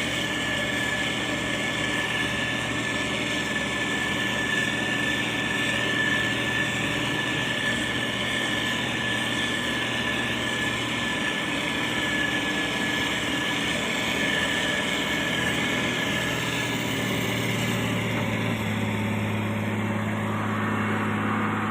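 Heavy diesel road-construction machinery (motor grader and road roller) running steadily, with a low engine hum and a constant high whine. Near the end the engine note shifts and a second, higher hum joins.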